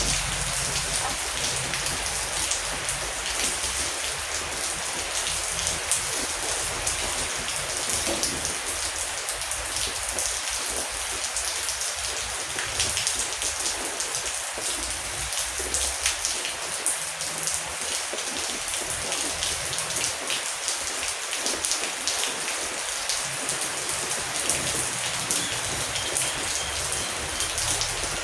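Heavy rain falling steadily, with many individual drops ticking on a surface.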